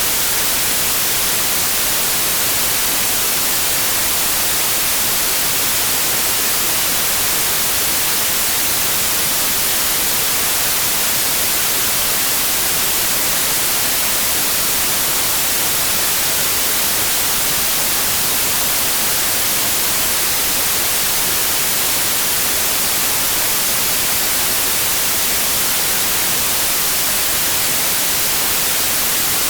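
Steady white noise, an even hiss that does not change, played as a sleep aid for colicky babies.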